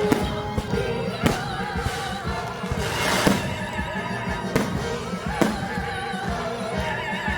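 Live orchestra and choir performing, with a sung line wavering in wide vibrato on top, while fireworks go off in about five sharp bangs over the music.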